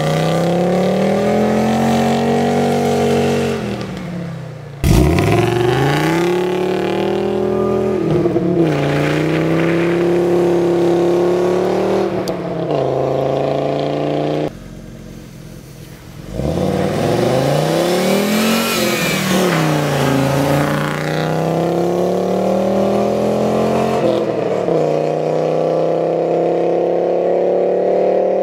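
Audi Coupé quattro's inline five-cylinder engine revving hard under full throttle, its pitch climbing and dropping again and again through the gears. The sound cuts abruptly about five seconds in, and there is a quieter two-second stretch around the middle.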